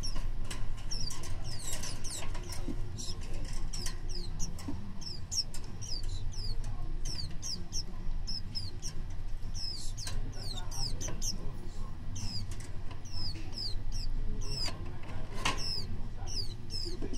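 A small bird chirping over and over in short, high notes that each slide downward, about one or two a second. Scattered clicks and scuffs and a low steady rumble run underneath.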